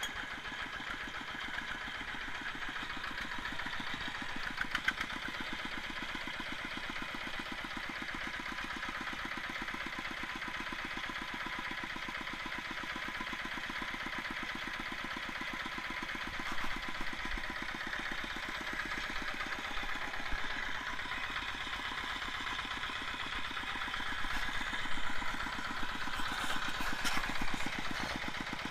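Diesel tractor engine idling steadily with an even diesel clatter, a few sharper knocks near the end; it is an engine that blows smoke despite new piston rings and piston.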